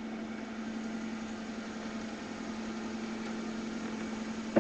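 1995 Toyota Corolla's 1.8-litre four-cylinder engine idling steadily through a straight-piped exhaust, still warming up from a cold start. There is an even hum and a short knock near the end.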